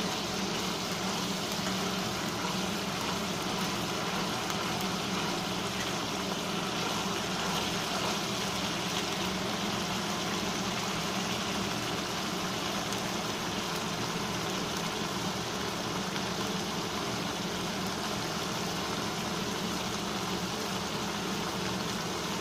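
Onion and ginger-garlic-chilli masala paste frying in mustard oil in a steel kadai, a steady sizzle and bubbling.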